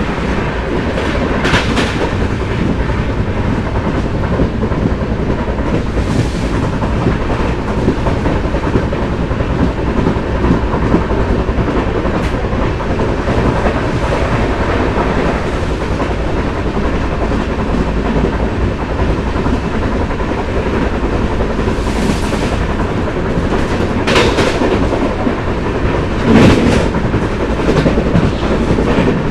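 Nellai Superfast Express running along the track: a steady rumble of wheels on rails with intermittent clickety-clack as the wheels pass over rail joints, and a louder clatter a few seconds before the end.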